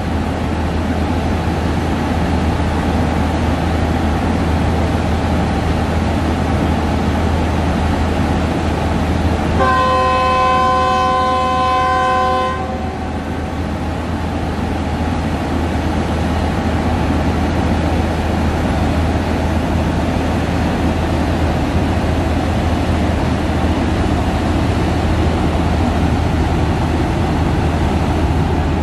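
Diesel-hauled passenger train pulling out of a station, its coaches rolling past with a steady rumble. About ten seconds in, the locomotive horn sounds once for about three seconds as a chord of several notes.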